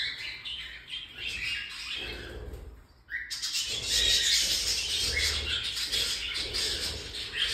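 Baby cockatiels chirping and squawking in a busy, overlapping chorus, with a short lull about three seconds in before the calling picks up again.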